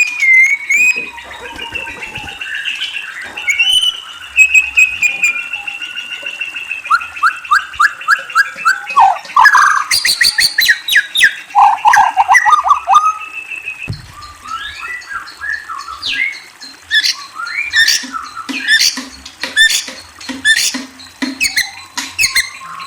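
A murai songbird singing a varied, continuous song: long sliding whistles first, then runs of rapid repeated notes and trills, turning to quick sharp chattering notes in the second half.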